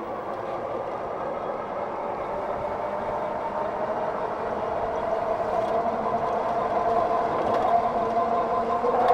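Electric bike's hub motor whining as it accelerates. Its steady tones creep up in pitch and grow louder, over a haze of road noise.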